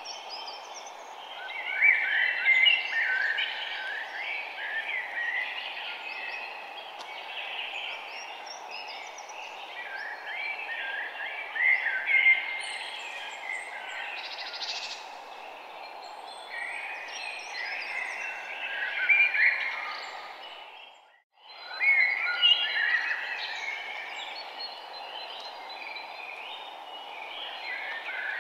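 Birds chirping, many short calls coming in clusters over a steady hiss; the whole sound dips out briefly about 21 seconds in and comes straight back.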